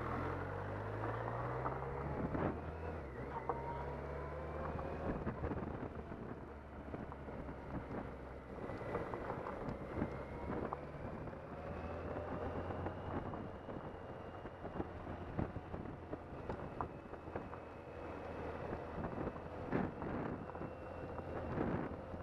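BMW K1100 motorcycle's inline-four engine running under way, its pitch rising and falling with changes in engine speed, under a steady rush of wind and road noise on the bike-mounted microphone.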